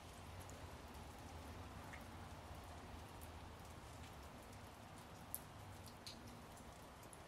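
Light rain falling, with scattered single drops ticking close by, over a faint low hum.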